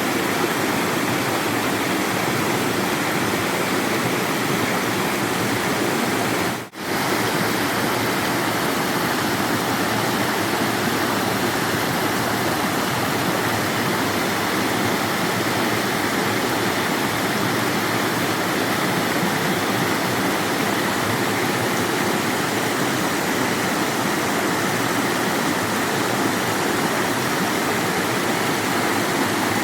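Steady rush of flowing water, even and unbroken, cutting out for a split second about seven seconds in.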